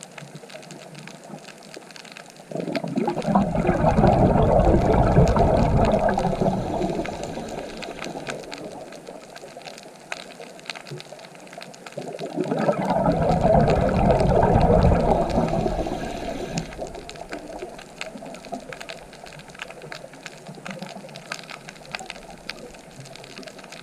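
A scuba diver's exhaled bubbles rushing underwater in two long swells, about ten seconds apart, with faint scattered clicks and a low hiss between.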